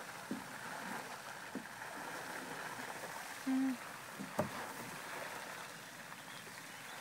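Steady outdoor background noise at the water's edge, with a few small clicks, a short low hum about three and a half seconds in, and a sharper click a second later.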